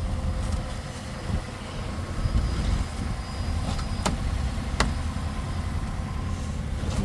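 Car engine idling steadily as it warms up on a cold morning, a low even rumble, with two sharp clicks about four and five seconds in.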